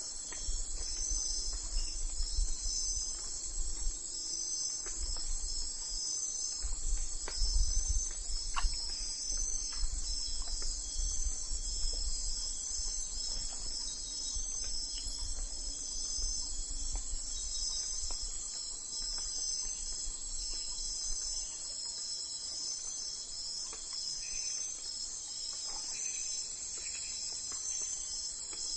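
Crickets chirping in a steady, pulsing chorus, with a low rumble underneath for most of the first two-thirds.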